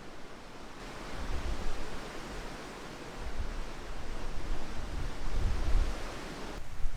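Strong, gusting wind rushing and buffeting the microphone with low rumbles that swell and fade.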